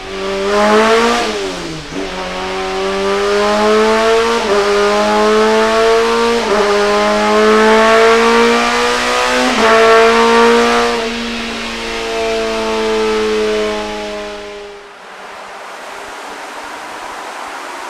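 Toyota Land Cruiser 80's 4.2-litre turbocharged six-cylinder diesel engine pulling hard under load on a dyno. Its pitch climbs steadily, with brief dips about 2, 4.5, 6.5 and 9.5 seconds in, then eases off and stops, leaving a steady rushing noise.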